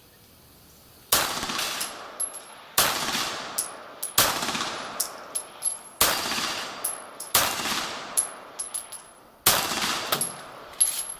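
Beretta 92G Elite Compact 9 mm pistol fired six times, single shots spaced a second and a half to two seconds apart, each shot trailing off in an echo. A short high ring and smaller sharp cracks follow several of the shots.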